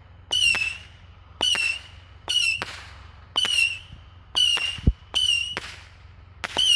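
Saturn missile battery firing its whistling missiles one after another, about one a second: each a short, slightly falling whistle with sharp cracks. A deep thump, the loudest sound, lands about five seconds in.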